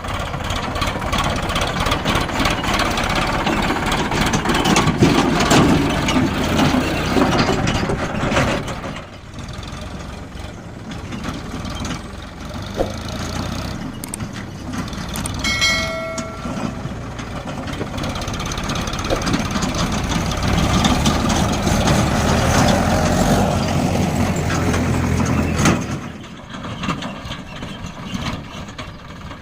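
Tractor diesel engine running under load while hauling a loaded trolley; it is louder for the first eight seconds and again from about 18 to 26 seconds, easing off in between and near the end. A brief high tone sounds about halfway through.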